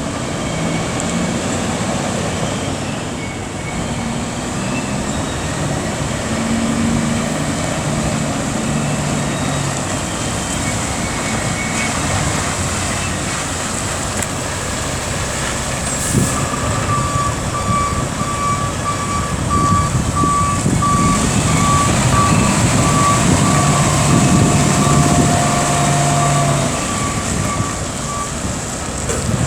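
2003 Mack CV713 Granite concrete mixer truck's diesel engine running, its pitch shifting now and then. About halfway through there is a short sharp sound, and then a reversing alarm beeps steadily for about ten seconds.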